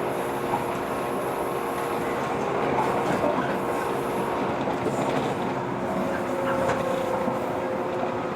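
Running sound heard inside a JR 115-series electric train as it slows on the approach to a station, a steady rumble with several steady tones, and a thin high squeal joining in during the second half as the brakes take hold.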